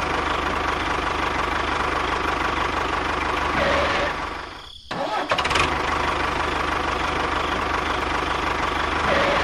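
Small engine running steadily with a fast, even chug. About halfway through it dies away, stops for a moment, and starts up again.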